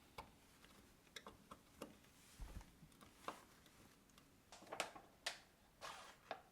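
Scattered light clicks and knocks of kitchen items being handled and set down during kitchen organizing, irregular, with a few sharper taps around five seconds in.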